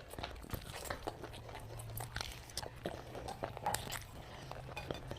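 Close-up chewing and biting of food, with many small, irregular crunches and clicks over a faint low hum.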